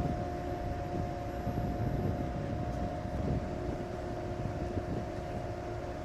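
Engine running steadily with a constant whine over a low rumble, with wind on the microphone.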